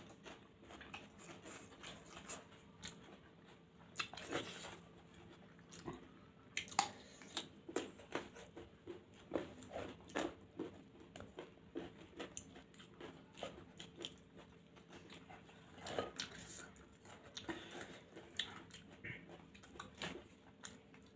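Two people eating spicy homemade noodles by hand, chewing and biting, with irregular short mouth clicks and smacks.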